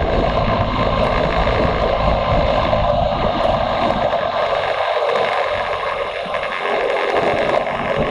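Motorcycle on the move: wind rushing over the microphone, with the engine rumbling low underneath; the rumble drops away for a couple of seconds about halfway through, then returns.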